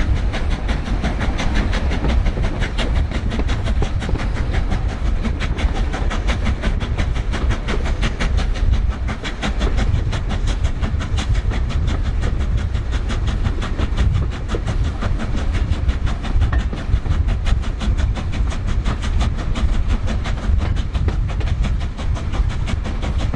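LMS Black Five two-cylinder 4-6-0 steam locomotive working under steam, its exhaust beats coming quickly and evenly over a heavy rumble of the train running on the rails.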